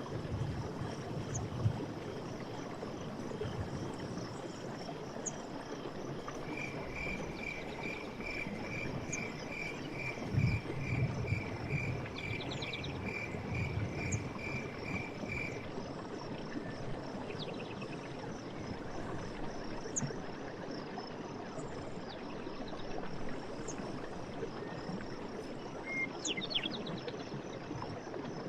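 Night forest ambience: insects trill steadily over a constant rush of water. A repeated chirping call, about two chirps a second, runs for about nine seconds in the middle, with a few short calls here and there.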